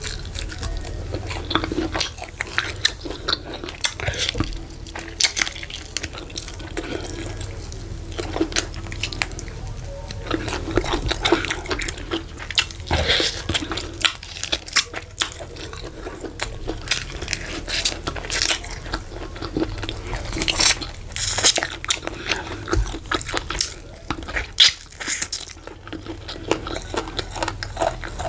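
Close-miked eating sounds: wet chewing and smacking while meat is bitten and gnawed by hand, with many sharp mouth clicks.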